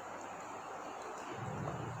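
Steady background hiss with a low rumble coming in about one and a half seconds in.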